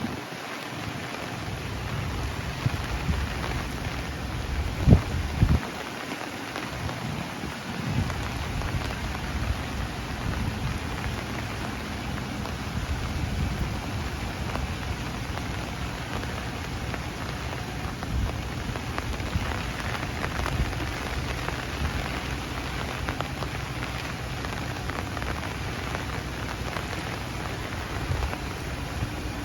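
Steady rain falling on tree leaves, an even patter with a low rumble beneath it, and a couple of brief low thumps about five seconds in.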